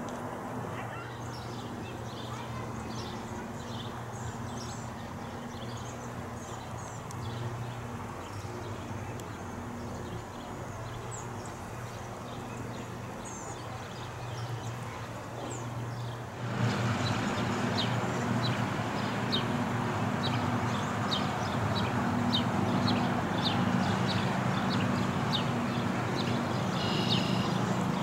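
Outdoor pond-side ambience: small birds chirping over a steady low hum and noise, all growing louder about sixteen seconds in, after which the chirps come quick and regular.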